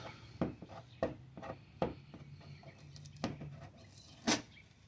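Handling noises from unpacking a portable air conditioner: half a dozen scattered knocks and clicks with some rubbing, as loose pieces are pulled off the unit. The loudest knock comes near the end.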